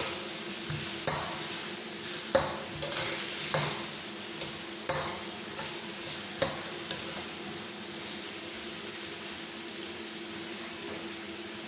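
Chicken sautéing in a pan: a cooking utensil stirring and clinking against the pan about eight times in the first seven seconds, over a steady sizzle that then goes on alone.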